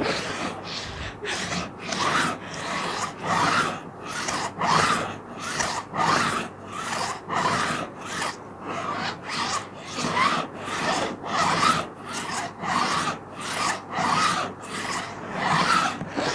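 Plastic sheet being scratched in steady, even strokes, about one and a half scrapes a second, each a dry rasping scrape.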